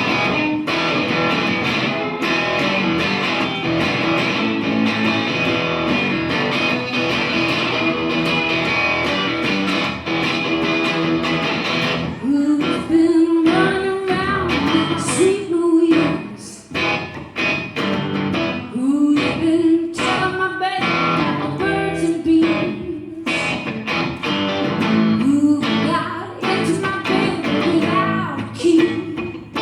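Live performance of a guitar-led song, opening with a steady strummed guitar. A woman's singing voice comes in from about twelve seconds in.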